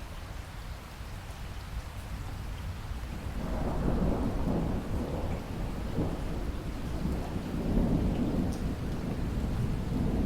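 Steady rain with a low rumble of thunder that swells about three and a half seconds in and continues.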